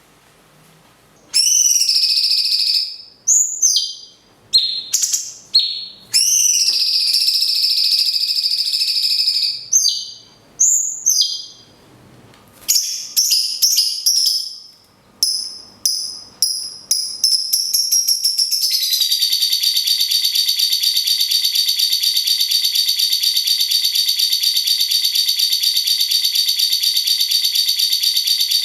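Birdsong: a cucak cungkok gives loud whistled calls, some long held notes and some short sliding ones. From about 18 seconds in, a lovebird takes over with a long, fast, unbroken trilling chatter (ngekek) at a steady pitch.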